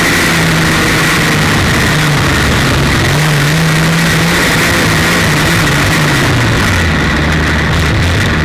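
The 300 cubic inch straight-six of a 1932 Ford Super Modified race car running loud at speed, heard onboard. Its pitch holds high, then drops about five to six seconds in as the revs come down. A steady high whine and rushing noise sit over it.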